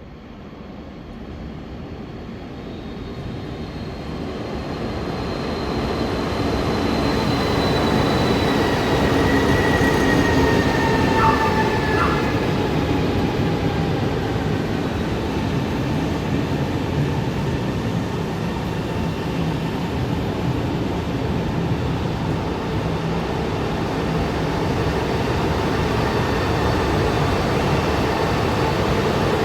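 High-speed electric train running along the platform: its rumble builds over the first several seconds and then stays loud, with a whine sliding slowly down in pitch and a brief clack near the middle.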